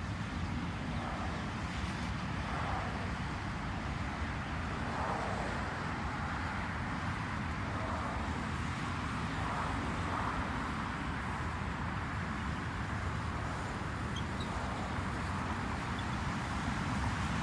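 Steady low rumble of road traffic and wind, with faint swells every few seconds, heard while cycling.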